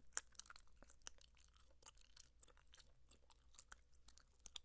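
Bubble gum being chewed with the mouth close to the microphone: soft, wet, irregular smacking clicks, several a second.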